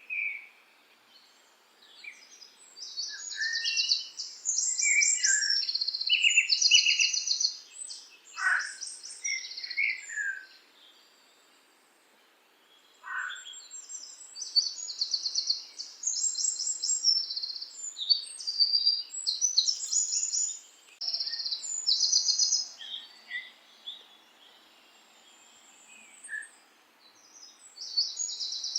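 Songbirds singing: phrases of rapid, high trills and chirps lasting several seconds, separated by pauses of a few seconds, with an occasional lower falling whistle.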